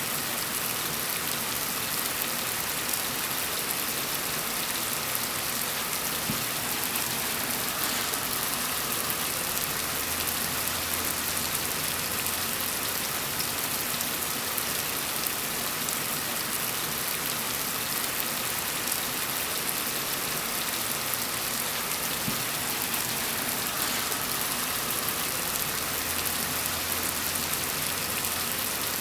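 Steady rain falling in a dense, even patter of drops. A faint low hum rises under it twice.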